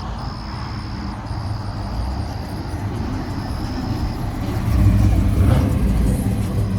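Car engine rumbling, growing louder about two-thirds of the way through.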